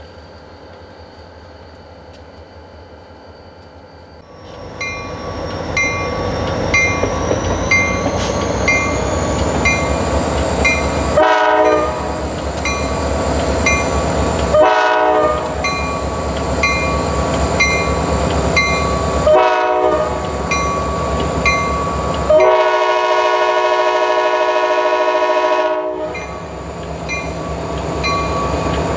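Diesel locomotives of a freight train come up loud and running under power. The horn sounds three short blasts spread over several seconds, then one long blast of about three and a half seconds.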